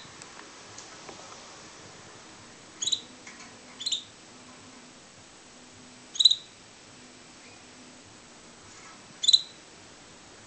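Pet canary giving short, high chirps: four single call notes a second or more apart, the rest of the time quiet.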